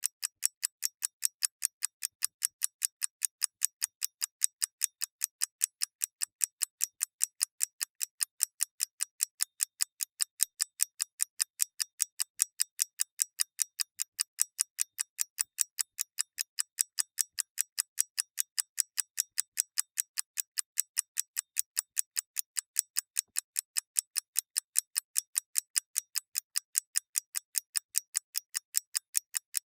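Mechanical clockwork ticking at an even pace, about four crisp ticks a second.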